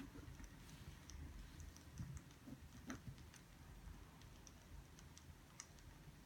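Near silence, with faint, irregular light clicks and ticks scattered throughout.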